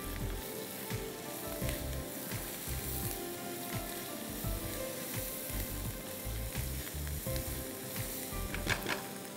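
Sliced onions sizzling as they fry in a non-stick pan, stirred and scraped with a silicone spatula.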